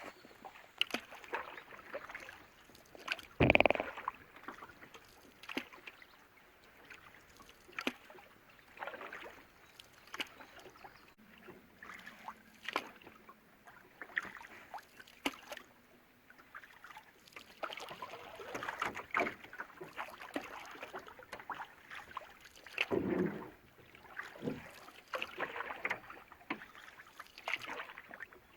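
Canoe paddles dipping and pulling through lake water in irregular strokes, with splashes and drips. A louder splash or knock stands out about three seconds in, and another just after twenty-three seconds.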